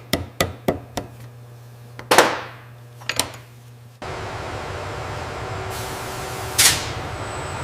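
A steady run of hammer blows on metal, about four a second, stops about a second in. A heavier metallic clank with a long ring follows about two seconds in, then two quick knocks. Midway the sound cuts to a steady workshop machine noise, with a short hiss of air near the end.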